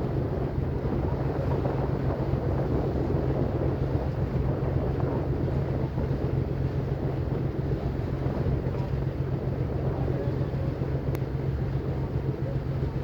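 Ferry boat's engine running steadily with a constant low drone, mixed with wind buffeting the microphone.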